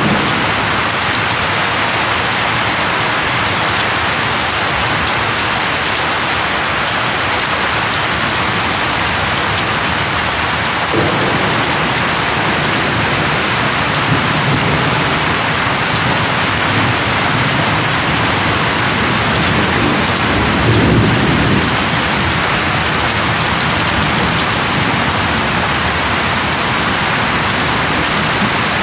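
Steady heavy rain hissing. A low rumble of thunder rolls in about a third of the way through and swells to its loudest about three-quarters of the way in before fading.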